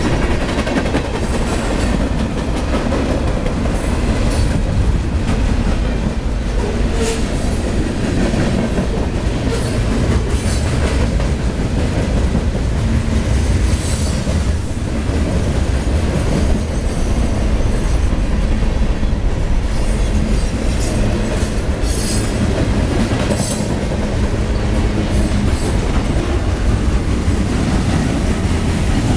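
Freight train cars (boxcars, hoppers and tank cars) rolling past close by: a steady rumble and clatter of steel wheels on the rails, with brief high wheel squeals now and then.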